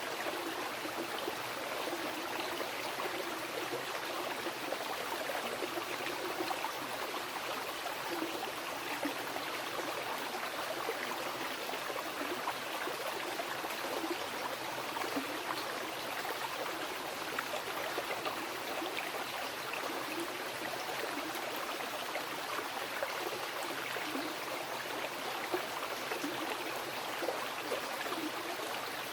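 A mountain river rushing and gurgling over rocks, a steady, unbroken flow of water.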